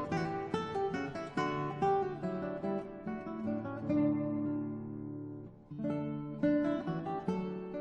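Background music: acoustic guitar plucking and strumming, with a chord held for about a second and a half in the middle before the picking resumes.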